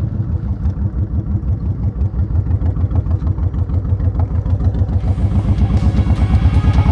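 Honda VTX1800's big V-twin engine running with an even pulsing beat, growing gradually louder.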